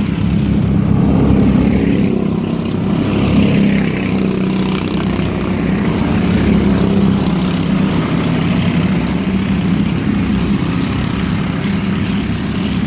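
Engines of junior mini race trucks running laps of an oval dirt track, a steady loud drone that swells slightly as the pack passes.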